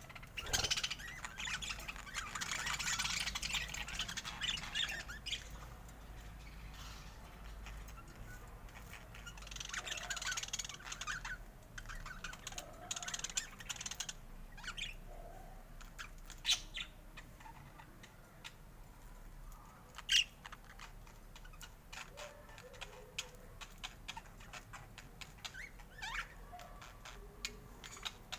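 Budgerigars chattering and squawking in two busy spells, with scattered sharp clicks and short chirps in between.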